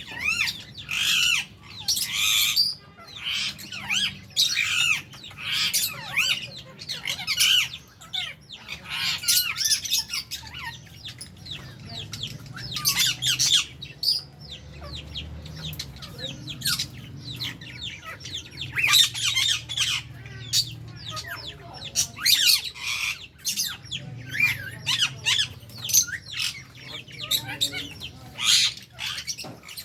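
A flock of lovebirds and budgies chattering, with many short, shrill squawks and chirps overlapping without a break.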